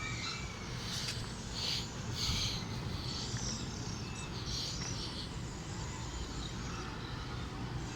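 Outdoor ambience: a steady low background rumble with several short, high bird chirps, most of them in the first few seconds.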